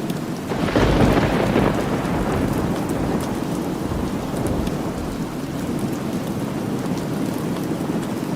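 Steady rainfall with a roll of thunder that swells about half a second in, is loudest around a second in and fades over the following few seconds.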